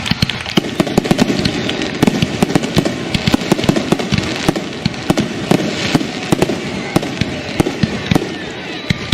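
Fireworks going off: a dense, unbroken run of sharp bangs and crackles, several a second.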